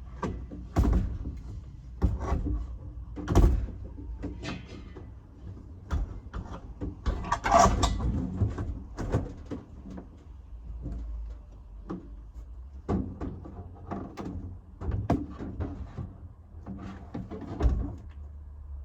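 A run of irregular knocks and clunks of things being handled, some sharp and loud, over a steady low hum.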